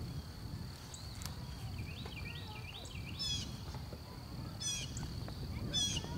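Outdoor park ambience with songbirds calling: a wavering repeated call, then short rapid chirping phrases about three, four and a half and six seconds in, over a low steady rumble.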